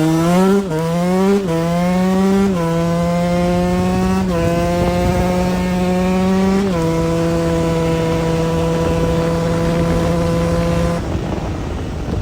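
KTM 125 EXC two-stroke single-cylinder dirt bike engine accelerating up through the gears: the revs climb and drop sharply at each of about five shifts, then hold steady. The engine note dies away about a second before the end.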